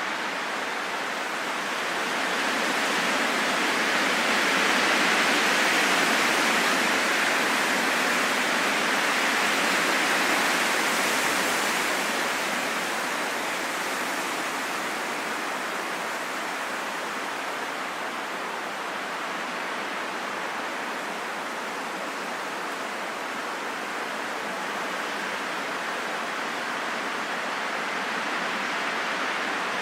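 Steady rain falling in a forest, an even hiss with no single drops standing out, swelling a little louder for several seconds near the start before settling back.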